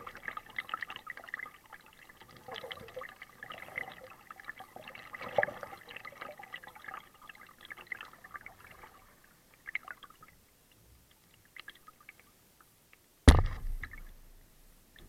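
Water splashing and dripping from a kayak paddle, busy at first, then thinning to scattered drops. A single sharp knock with a dull thud comes near the end and is the loudest sound.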